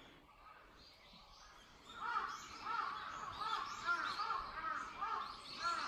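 Birds calling, starting about two seconds in: a busy, overlapping run of short, arching call notes repeated several times a second.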